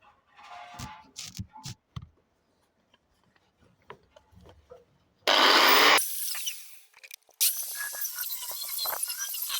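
Angle grinder with a fresh cutting disc: a few light handling knocks, then a short loud burst about five seconds in that dies away. From about seven and a half seconds the grinder runs steadily, cutting with a squealing, scraping edge.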